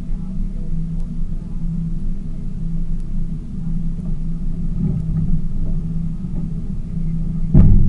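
Tour boat's engine running steadily with a low hum, and one sudden loud thump near the end.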